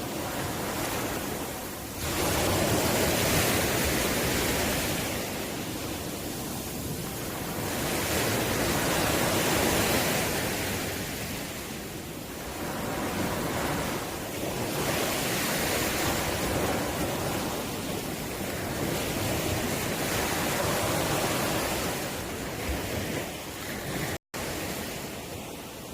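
Ocean waves breaking and washing up on the shore, the surf swelling and falling back every several seconds. A split-second gap in the sound near the end.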